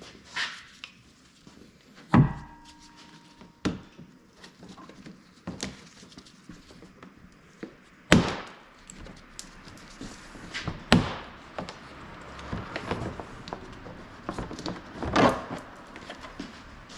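Irregular knocks and clanks of hand tools and metal parts being handled and set down. About two seconds in, one sharp strike rings briefly like metal, and there are louder knocks about eight, eleven and fifteen seconds in.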